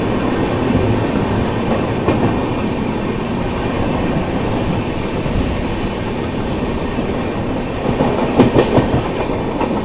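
Express passenger train running through a station without stopping, heard from an open coach door: a steady rumble of wheels on rail, with a cluster of louder clacks about eight seconds in.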